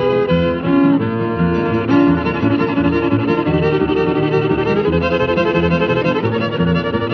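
Country fiddle music: a fiddle playing a lively instrumental line over a steady, pulsing rhythm backing.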